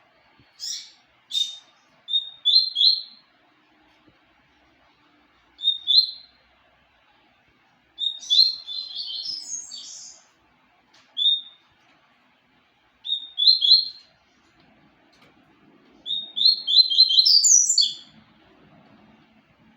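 Papa-capim (a Sporophila seedeater) singing: short bursts of quick, high chirping notes repeated every second or two with pauses between, and two longer, more varied phrases, one near the middle and one near the end.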